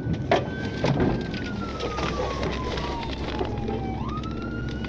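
Police car siren wailing. Its pitch holds high, slides down slowly for about three seconds, then sweeps back up near the end, over steady road and engine noise. A few sharp knocks come in the first second.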